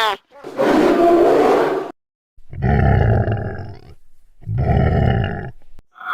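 Creature sound effect of a reptilian alien: three separate growling roars, each about a second or more long, with short gaps between them.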